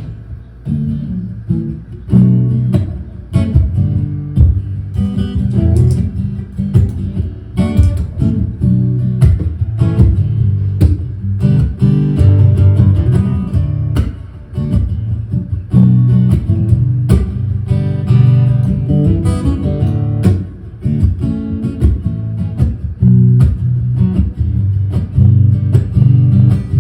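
Acoustic guitar strummed in a steady rhythm, the instrumental intro of a song before any singing comes in.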